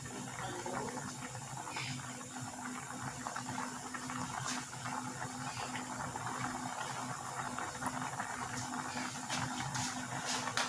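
Pot of chicken and banana heart stewing in coconut milk bubbling at a rolling boil, a steady crackling simmer with a low steady hum underneath.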